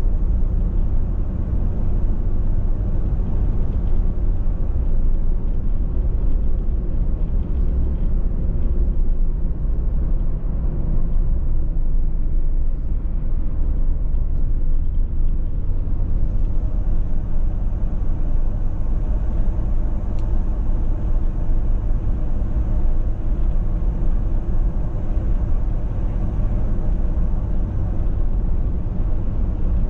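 Car driving at steady speed, with a constant low road and tyre rumble.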